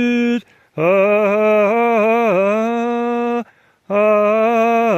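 A man's unaccompanied solo voice chanting long held vowel tones. There are three sung stretches with short breaths between them, and the middle phrase dips and wavers in pitch.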